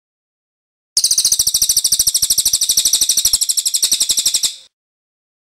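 A songbird giving one fast, even trill of high, clicky notes, roughly a dozen a second. It starts about a second in and stops sharply about three and a half seconds later.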